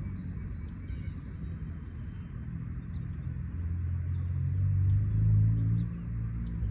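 Exhaust note of a 2017 Chevy Cruze with a full custom exhaust, a low drone at low speed that swells about four seconds in and eases again near the end. Faint bird chirps sound high above it.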